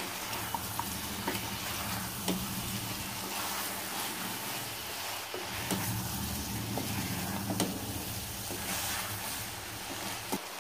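Chicken and diced yellow cucumber sizzling in oil in an open pressure cooker, stirred with a spoon: a steady frying hiss with a few light scrapes of the spoon against the pot.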